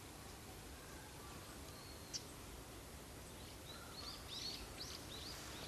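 A small wild bird giving a quick run of short, high chirps, about eight of them in the second half, over faint outdoor background noise. There is a single soft click about two seconds in.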